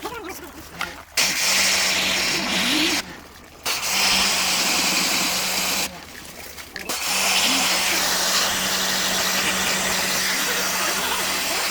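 High-pressure cleaning washer spraying water onto disassembled air-conditioner parts. The pump motor hums under the spray's hiss, and it runs in three long bursts that start and stop abruptly as the trigger is pulled and released.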